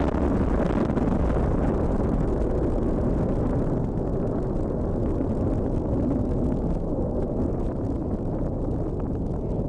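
Deep, steady rumble of an F-35A Lightning II's F135 afterburning turbofan jet engine in flight. The higher hiss fades from about four seconds in, leaving mostly the low rumble.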